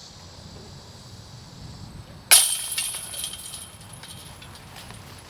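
A disc golf disc hitting the metal chains of a basket: one sudden crash about two seconds in, followed by a bright chain jingle that rings out over a second or so.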